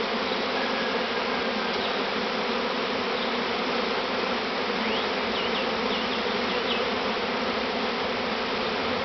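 Dense, steady buzzing of a large honeybee swarm in flight all around, thousands of bees arriving to move into a hive box.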